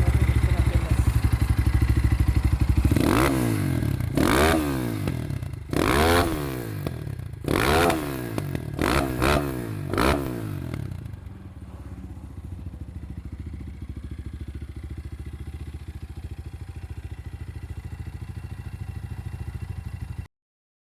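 SHR-5 motocross bike's engine running at idle, then revved in a series of quick blips, each rising and falling, between about 3 and 10 seconds in. After that it settles to a quieter steady idle until the sound cuts off abruptly near the end.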